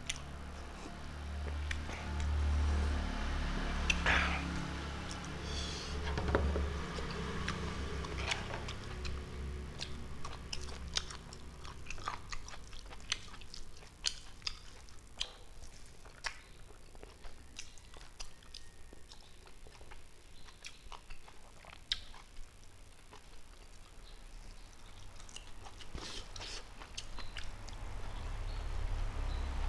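Close-miked chewing and wet mouth clicks of a person eating rice and chicken by hand, in short sharp ticks every second or so. A low rumble sits under the first several seconds.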